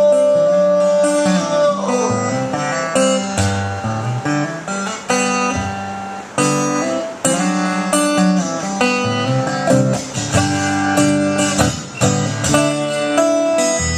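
Live band playing an instrumental break in a song, with no singing: a plucked guitar lead over a bass line. The first note is held for about two seconds, then the guitar plays a run of short notes.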